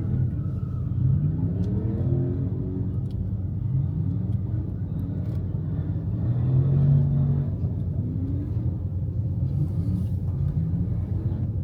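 Car engine rumbling, with the revs rising and falling several times; the loudest rev is about seven seconds in.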